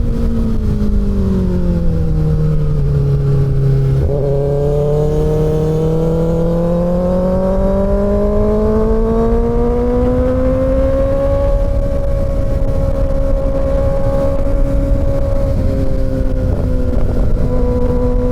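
Kawasaki Ninja ZX-6R inline-four engine under way: engine speed drops over the first few seconds, climbs smoothly through the middle, then holds steady. Steady wind and road rush runs underneath.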